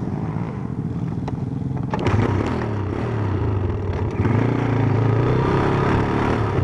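Stomp KZR140 pit bike's 140cc single-cylinder four-stroke engine running, with the throttle opened about two seconds in and again about four seconds in as the revs rise.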